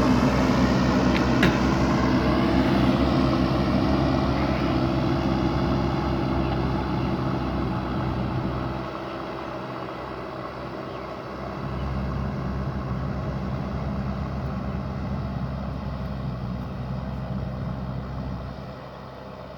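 JCB backhoe loader's diesel engine running steadily, growing gradually fainter over the first half and dropping off sharply near the end.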